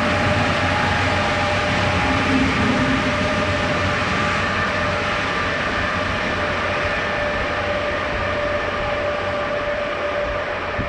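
Polregio SA133 diesel railcar with a bicycle wagon passing on the track: a continuous rumble of wheels and rail noise with a steady whine over it, slowly fading.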